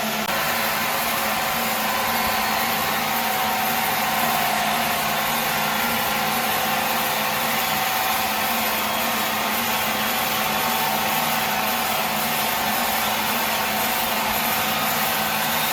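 A machine's motor running steadily, an unbroken mechanical drone with a constant pitch.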